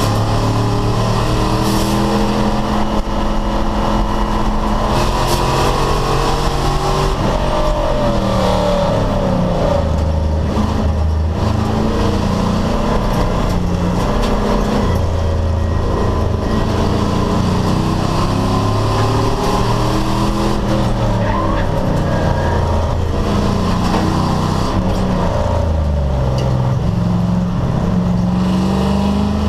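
Race car engine under hard racing load, revving up through the gears and falling away again and again as it shifts and brakes for corners.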